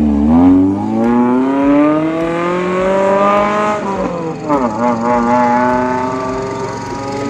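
An off-road 4x4's engine revving, its pitch rising steadily for about four seconds, dipping briefly, then rising again more slowly.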